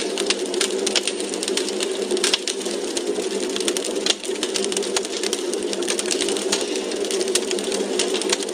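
Wood fire crackling in a fireplace: dense, irregular pops and snaps over a steady rushing hiss.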